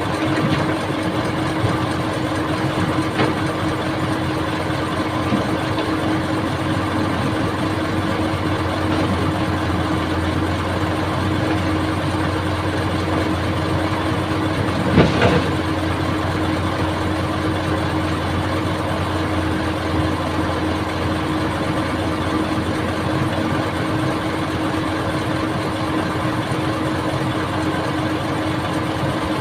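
Old excavator's diesel engine running steadily, with one sharp knock about halfway through.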